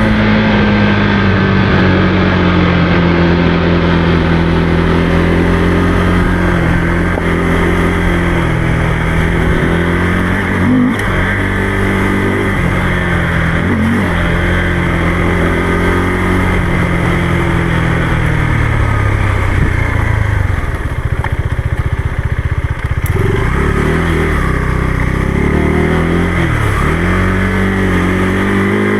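Motorcycle engine running on the move, its pitch rising and falling with the throttle, dropping low about twenty seconds in and then climbing again.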